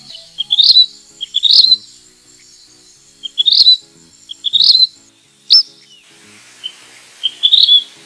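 Vermilion flycatcher calling: six short, high phrases, each a quick run of stuttering notes rising to a sharp peak, spaced about a second or more apart.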